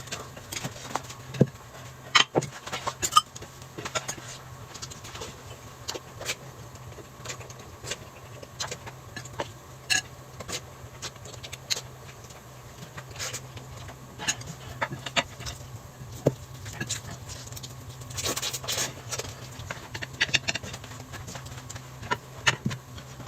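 Eating sounds: scattered small clicks and taps of dishes and utensils at irregular intervals, over a faint steady hum.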